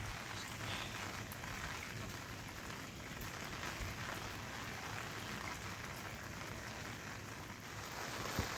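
Steady rain falling, an even hiss of drops without letting up.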